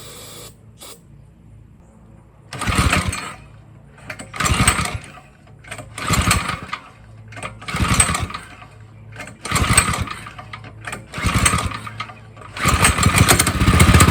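Minibike's small engine being pull-started: six short cranking bursts about every 1.7 s, then the engine catches about 12.5 seconds in and keeps running.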